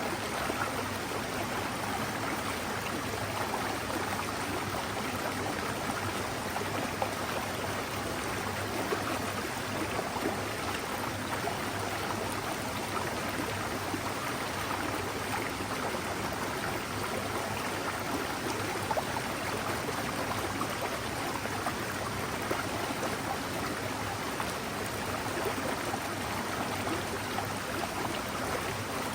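Forest mountain stream running steadily: an even, unbroken rush of flowing water.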